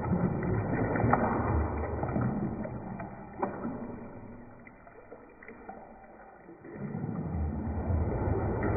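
Bathwater being sloshed into waves, with a few light knocks. The sloshing dies down for a couple of seconds midway, then picks up again.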